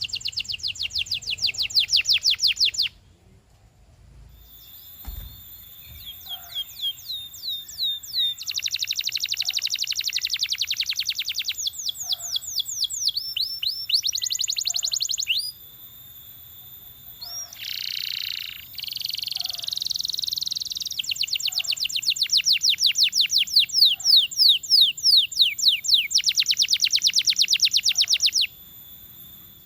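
Domestic canary singing: long rolling trills of rapid repeated high notes, broken into several phrases with short pauses and some quick gliding notes between them.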